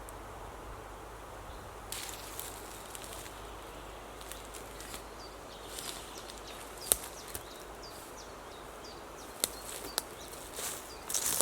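Woodland ambience: a steady hiss of background noise with short chirping bird notes in the middle. A few sharp clicks or cracks and a brief burst of rustling come near the end.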